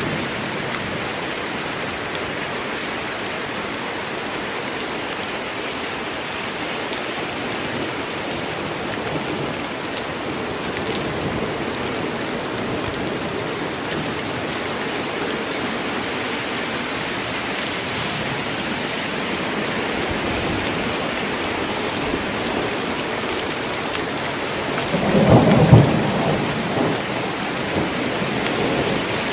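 Steady heavy rain falling on forest foliage, an even hiss. About 25 s in a clap of thunder rumbles loudly and dies away over a couple of seconds.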